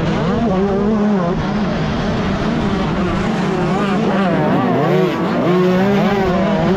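A 125cc two-stroke motocross bike engine at race pace, its revs rising and falling again and again as the throttle is opened and shut.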